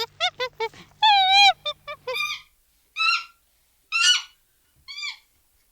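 Monkey calling: a quick run of short chattering calls, a longer wavering call about a second in, then three separate falling calls about a second apart.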